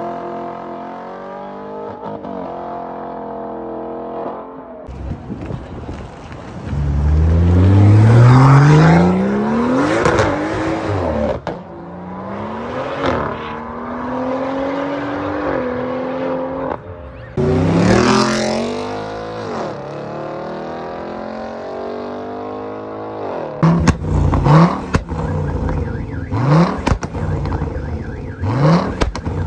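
Audi R8 accelerating hard: its engine revs climb steeply through several gears, each shift dropping the pitch before it climbs again, and the car fades as it pulls away. Near the end a parked Audi RS6 (C6), with its twin-turbo V10, is revved in short, sharp blips about once a second.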